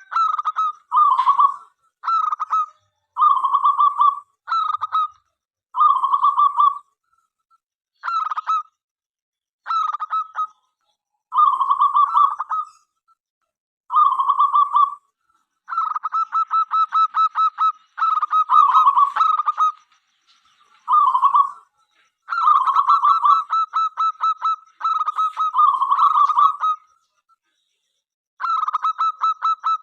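Zebra dove (local perkutut) cooing: repeated short phrases of quick staccato coos with short pauses between them. Twice the coos run on into longer stuttering trills.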